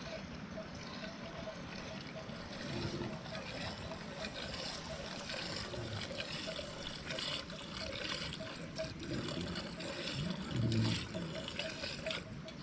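Liquid trickling and splashing unevenly, with a faint regular ticking underneath.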